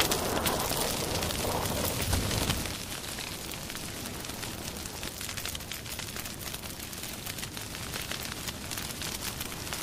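Small fire burning on sand, crackling with a steady hiss, louder for the first couple of seconds and then settling.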